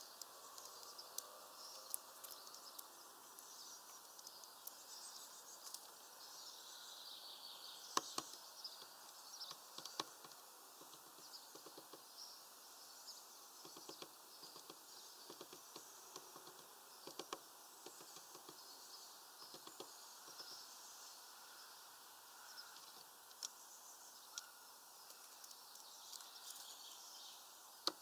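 Faint chirps of small birds over a quiet outdoor hiss, broken by scattered short sharp taps, the loudest about eight seconds in and near the end.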